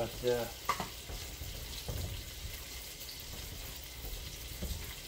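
Flour-breaded squirrel pieces frying in oil on low heat: a steady sizzle, with a few light knocks about a second, two seconds and four and a half seconds in.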